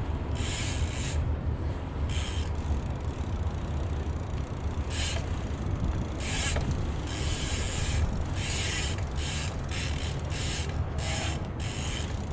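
Bicycle rear freewheel ticking in short spells as the rider coasts between pedal strokes, over a steady low rumble.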